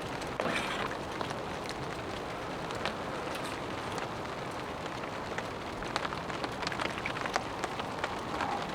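Steady rain falling, with many separate drops ticking irregularly.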